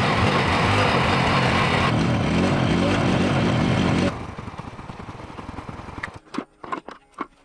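A motor running loudly under a rough hiss, cutting off abruptly after about four seconds; then a few sharp clicks and knocks near the end.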